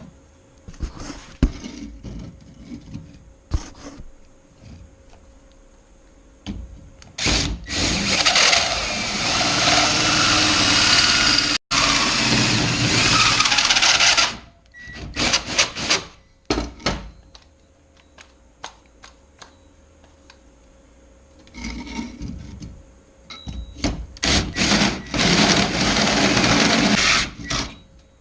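Electric drill with a hole saw cutting through a body-mount mounting plate, run slowly in two long spells with short clicks and knocks between them.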